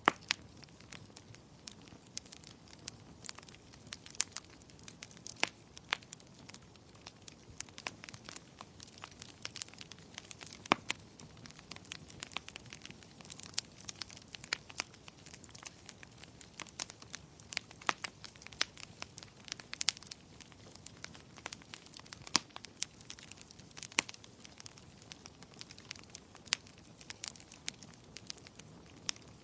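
Wood fire burning in a fireplace: a soft steady hiss with frequent irregular crackles and sharp pops, a few much louder than the rest.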